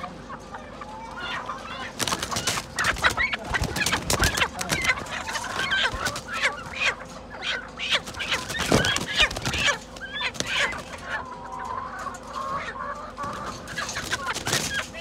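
Chickens clucking and calling, many short wavering calls overlapping. Many sharp clicks and knocks run among the calls from about two seconds in.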